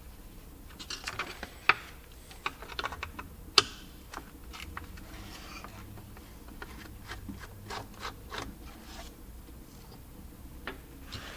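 Small irregular clicks and ticks of a Phillips screwdriver and tiny screws against the plastic housing of a backup camera module as the screws are taken out. There are two sharper clicks in the first four seconds and lighter ticks later.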